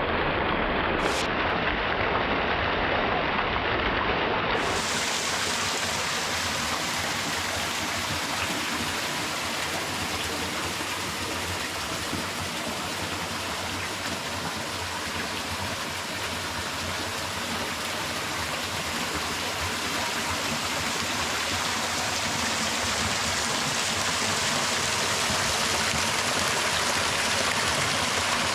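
Small creek waterfall splashing steadily over rocks. About four seconds in, its low rumble drops away and a brighter hiss takes over.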